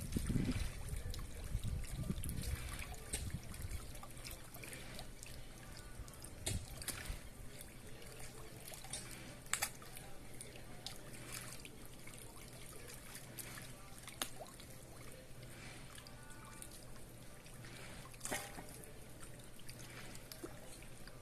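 Water trickling at a reservoir's edge, with scattered small splashes and clicks at the surface. A low rumble fills the first few seconds.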